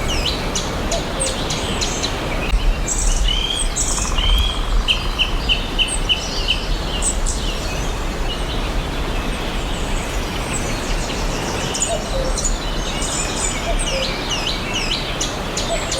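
Several songbirds chirping and singing over a steady background hiss, with a quick series of evenly repeated notes about three seconds in.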